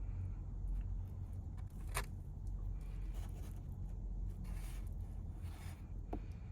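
Takeout food and its packaging being handled: soft rustling and scraping, with one sharp click about two seconds in, over a steady low rumble.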